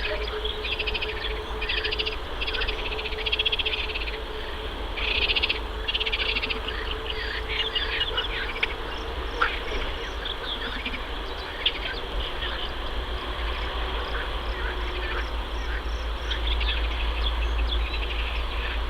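Bursts of rapid, high trilling calls, each about a second long, come thick in the first few seconds, then give way to scattered short high peeps of mallard ducklings. A low steady rumble runs underneath.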